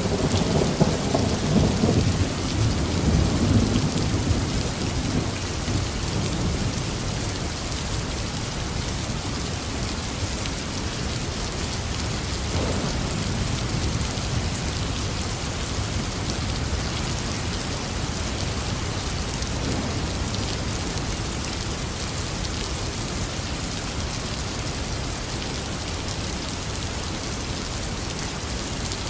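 Heavy rain falling steadily, with a rolling rumble of thunder in the first few seconds that fades away, and fainter distant rumbles later on.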